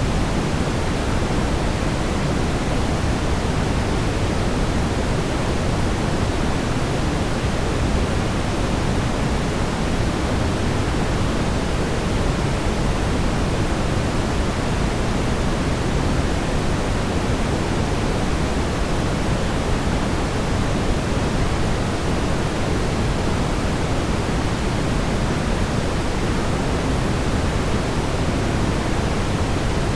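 Steady brown noise: an even, deep rumbling hiss, strongest in the low end and thinning toward the top, with no change or events.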